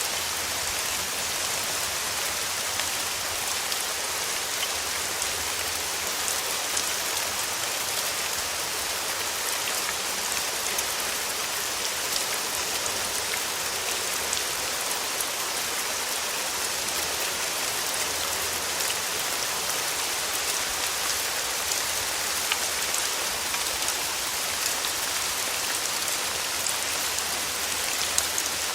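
Steady rain falling on a surface: a constant hiss of many fine drop patters, with no thunder or other sounds.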